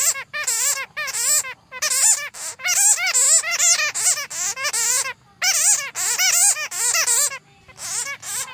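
Bats chattering: rapid bursts of high, wavering squeaks, broken by short pauses, one about two thirds of the way in and another near the end.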